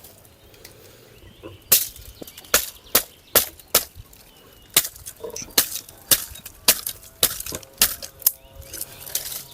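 Repeated sharp chopping strikes, irregular at about two a second, starting a couple of seconds in.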